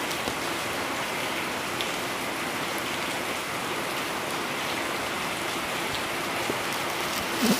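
Rainstorm rain falling steadily. Near the end there is a short low sound.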